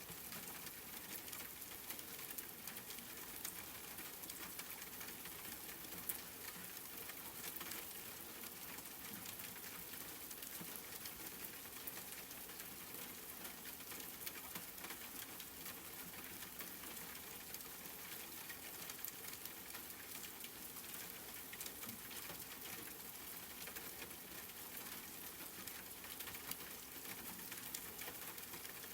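Steady, fairly faint rain: an even hiss with many small drops pattering.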